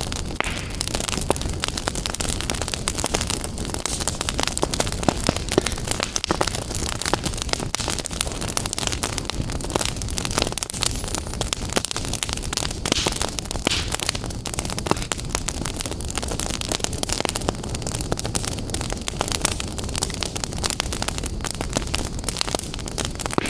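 Wood fire burning in a fireplace, crackling steadily with many small, irregular pops over a constant rushing hiss.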